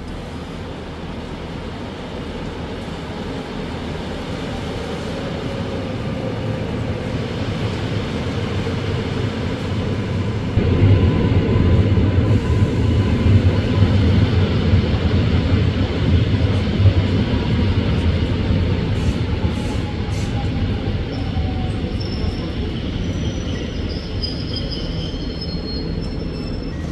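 A train running on the station tracks. Its low rumble builds to its loudest about halfway through, then eases off, and thin high tones appear near the end.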